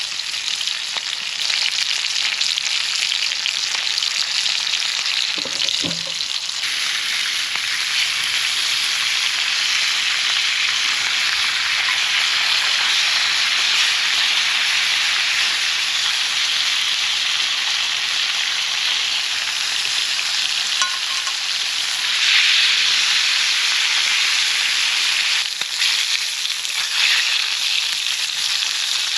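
A steady, dense high-pitched hiss with no pauses, like sizzling.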